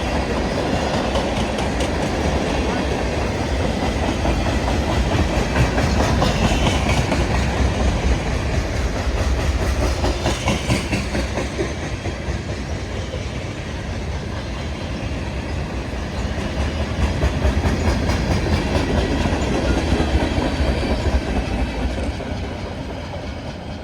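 Long freight train's cars rolling past, steel wheels clicking over the rail joints in a steady rumble that eases off near the end.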